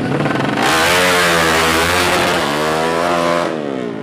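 Drag-race motorcycle engine revving hard as it launches, its pitch climbing, dipping briefly about two and a half seconds in, then climbing again before dropping away sharply near the end.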